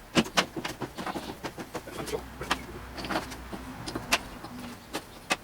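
Irregular light clicks and knocks of small wooden strips being handled and set down on a table as a model bridge frame is laid out.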